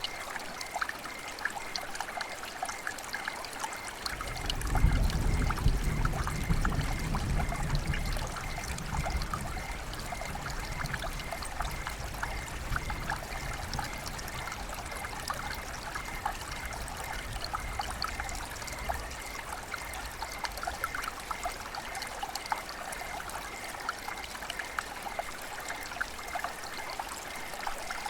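River water flowing and trickling steadily, with many small splashes and bubbles. A low rumble swells about four seconds in and fades away over the next several seconds.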